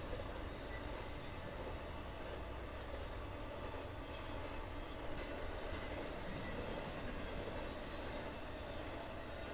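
Steady low rumble of a freight train rolling past.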